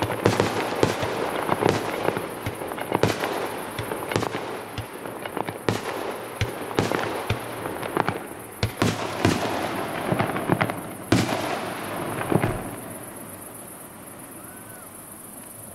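Fireworks display: a rapid series of bangs over continuous crackling, dying away about twelve seconds in.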